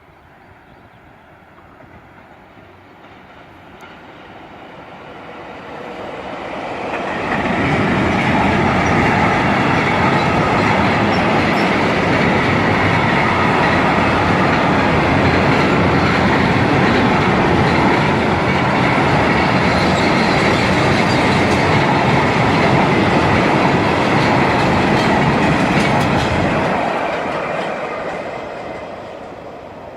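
Freight train passing: it draws near over a few seconds, its wagons rumble and clatter past for about twenty seconds, then the sound fades away near the end.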